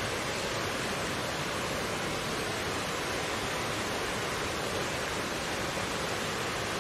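Mountain stream flowing over rocks: a steady, even rush of water with no breaks or separate splashes.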